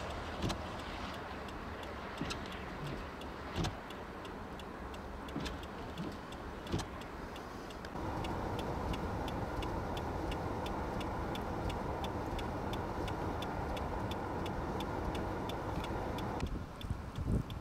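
Vehicle noise in a blizzard: a steady rush with a light, regular ticking, about two to three ticks a second, and a few scattered knocks. The rush grows louder about eight seconds in and falls back near the end.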